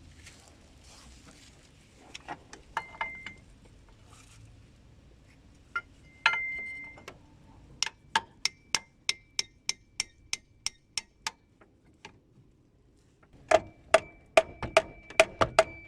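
Metal tools clinking with a short ring, then runs of evenly spaced sharp taps on metal, about two to three a second, growing denser near the end.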